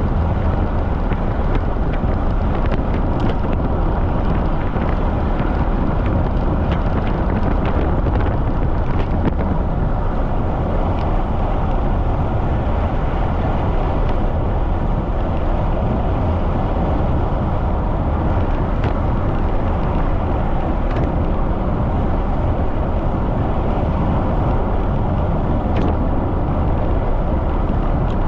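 Wind rushing over the microphone of a bicycle riding fast, a steady low rush with a few faint scattered ticks.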